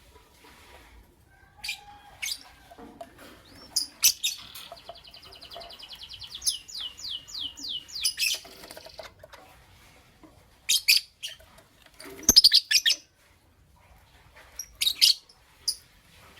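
Lovebirds chirping: short, sharp high calls come at intervals, and a rapid chattering run of repeated notes, some sliding downward, lasts from about four to eight seconds in.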